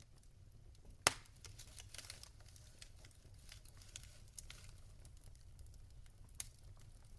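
Wood logs burning in a fireplace, crackling with scattered small snaps, one sharp loud pop about a second in and a smaller pop near the end.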